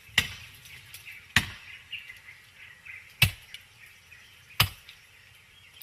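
Four sharp chopping blows of a hand tool, spaced unevenly about one to two seconds apart.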